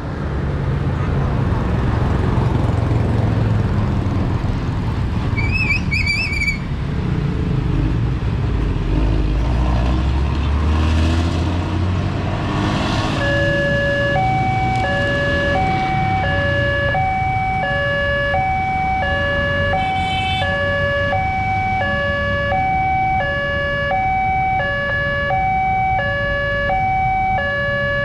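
Road traffic running past. About halfway through, a railway level crossing's electronic warning alarm starts, alternating a low and a high tone about once a second each, signalling an approaching train.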